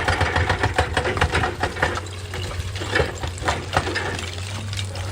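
Excavator's diesel engine running, a steady low drone with rapid rattling clicks that are busiest in the first two seconds.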